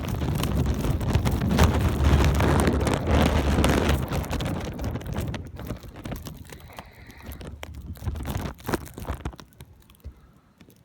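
Wind buffeting the microphone in gusts with a heavy low rumble for the first four seconds or so, then easing. After that come scattered short crunches of footsteps in deep snow.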